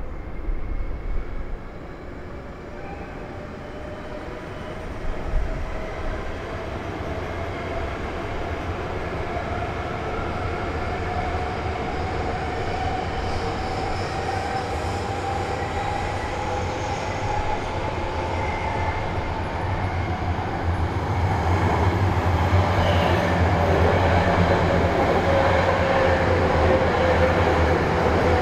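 E5 series Shinkansen train running, a rumble with an electric whine that slowly rises in pitch. About two-thirds of the way in the sound grows louder and heavier, and the whine drifts slightly down.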